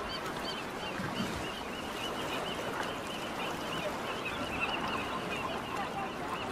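Birds calling in a quick, steady run of short rising-and-falling calls, several a second, over a continuous background noise.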